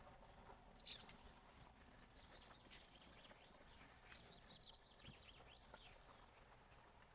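Faint bird chirps over a quiet background: a short high chirp about a second in, then a quick cluster of chirps around four and a half seconds in.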